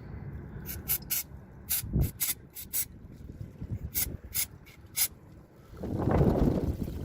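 Hand-tool work on a car's wheel and suspension: a series of short, sharp clinks and scrapes, then a louder stretch of rubbing and scraping about six seconds in.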